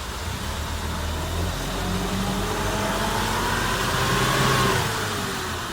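Off-road 4x4's engine revving under load, its pitch climbing for a couple of seconds and then dropping away near the end, as the vehicle tries to push through mud at too low a speed.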